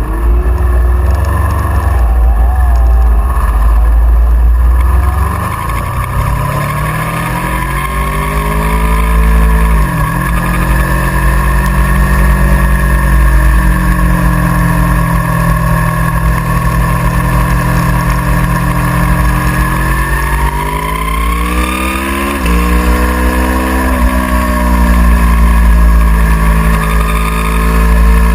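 Aprilia Tuono V4R's V4 engine pulling hard under acceleration, its pitch climbing and then dropping sharply at gear changes: once about a third of the way in, and twice in quick succession about four-fifths in. A heavy low rumble runs underneath.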